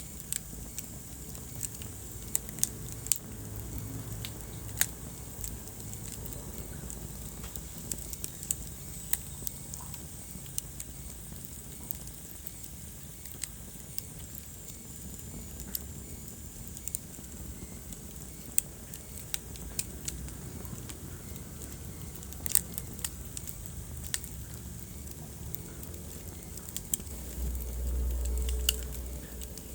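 Wood fire burning in a fireplace: irregular sharp crackles and pops over a steady low rumble and hiss, with a louder low rumble near the end.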